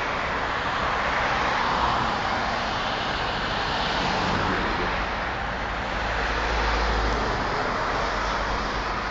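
Road vehicles passing, a steady noise of engines and tyres that swells twice, the second time with a deeper rumble.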